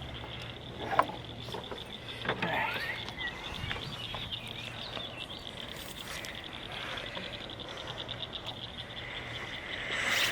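Steady, high, rapidly pulsing trill from small calling animals, a chorus of the kind frogs and insects make beside a pond, with a few short chirps about two seconds in and a single click about a second in.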